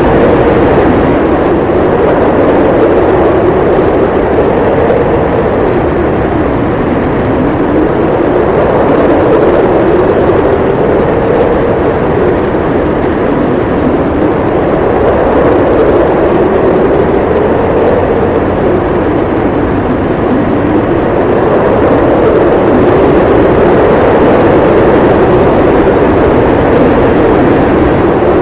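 Blizzard wind howling, a loud steady rush with a moaning tone that slowly rises and falls in pitch every few seconds.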